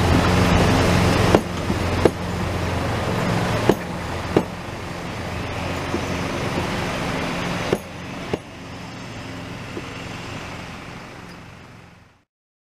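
Narrow-gauge railway coaches rolling past over a level crossing, the wheels knocking on a rail joint in three pairs as each bogie crosses, over a steady rumble and low hum. The sound grows quieter as the last coach passes and fades out near the end.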